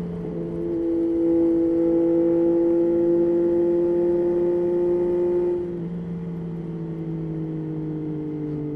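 Yamaha Tracer 9's 890 cc inline-three engine pulling under throttle, its note rising slowly. About six seconds in the throttle closes: the sound drops in loudness and the note slowly winds down.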